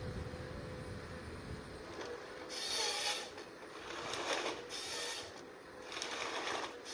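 Forestry machine handling timber: a low mechanical hum with short bursts of scraping and rubbing of wood, about 2.5, 4 and 5 seconds in.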